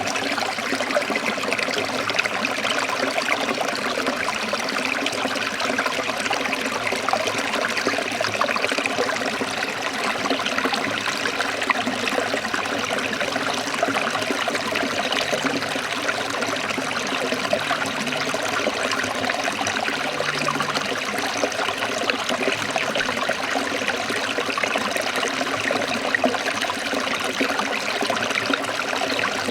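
Stream of water trickling and splashing steadily, an even rush with no breaks.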